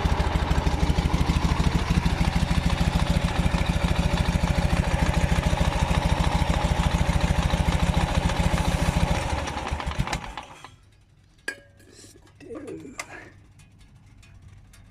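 Engine fed by an SU carburettor idling with an even pulse, then dying away and stopping about ten seconds in, followed by a few faint clicks. The engine has an intake air leak that the owner traces to the intake manifold gasket.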